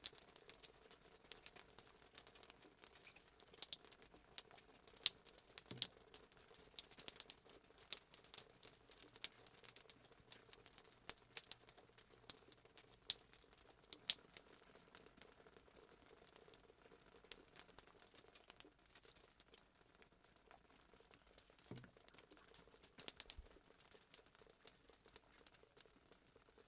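Fireplace sound effect: burning wood crackling, with quiet, irregular pops and snaps that come several times a second.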